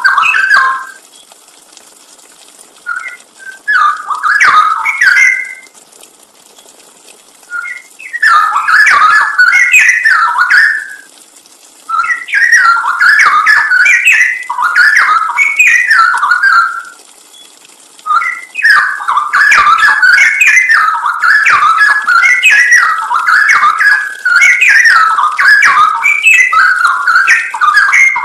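Straw-headed bulbul (cucak rowo) singing: rapid, warbling whistled phrases lasting a few seconds each, separated by short pauses. The last run goes on for about ten seconds.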